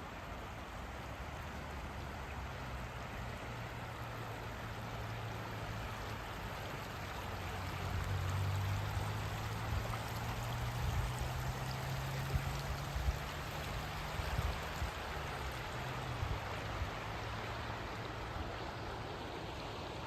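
River water flowing with a steady rushing sound. A low hum underneath grows louder through the middle and fades again, with a few soft knocks near the middle.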